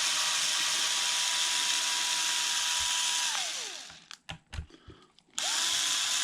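Cordless power driver running steadily with a high whine, backing out the screws of an RC truck's electronics case. It winds down and stops about three and a half seconds in, a few light clicks follow, and it spins up again about a second later.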